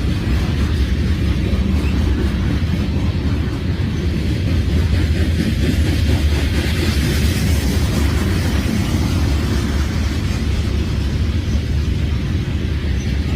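CSX freight train passing with a steady low rumble, and a hiss that swells about halfway through.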